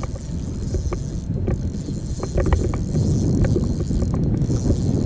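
Wind buffeting the microphone on a boat out on the water, a steady low rumble, with scattered light ticks and taps through it.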